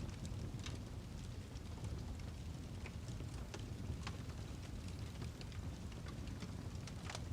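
Firewood burning, crackling with irregular sharp pops over a low steady rumble; one of the loudest pops comes near the end.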